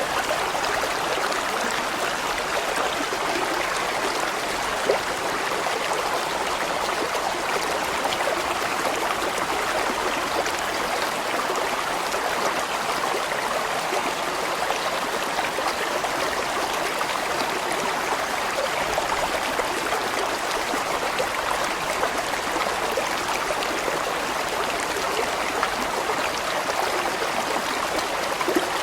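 A large mountain stream flowing steadily, water rushing and gurgling over rocks.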